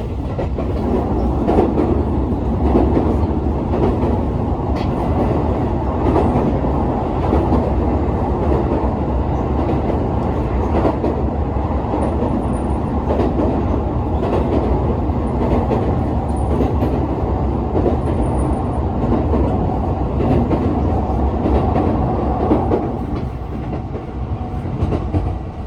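An electric commuter train running across a railway bridge: a steady, loud rumble of wheels and bridge, with a clickety-clack of wheels over rail joints, easing slightly near the end.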